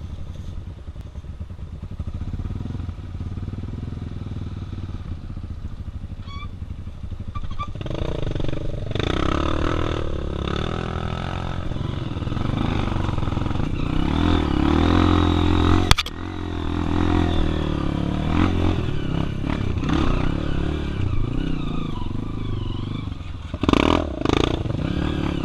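Single-cylinder four-stroke trail motorcycle engine running under way, at a lower level at first and louder and busier from about eight seconds in, with a sharp click about two-thirds of the way through.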